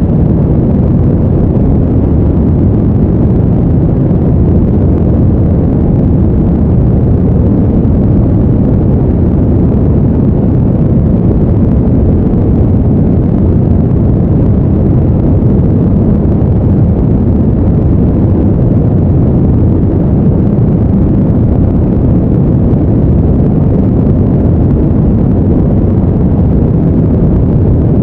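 Steady, deep rumbling noise, even and unchanging, most of it in the bass: a brown-noise sleep background.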